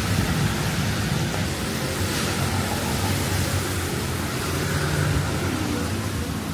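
Heavy rain falling, a steady hiss with a low rumble beneath it.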